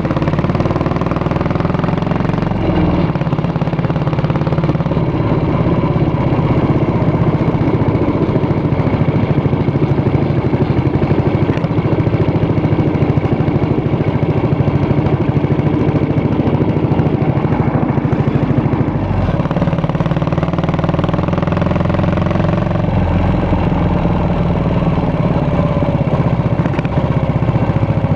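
Yamaha SR400 motorcycle's single-cylinder four-stroke engine running through a custom exhaust. It runs steadily, and the engine speed rises and falls near the start and again about two-thirds of the way in.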